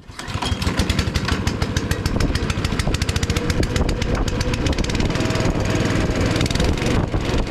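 Small gasoline engine starting with the choke on and running steadily on a freshly fitted carburetor.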